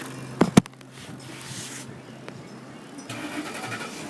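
Two sharp knocks, then a quiet fast clicking that starts about a second before the end. The clicking is a baseball card zip-tied to a bicycle, flapping against the spokes of the turning wheel.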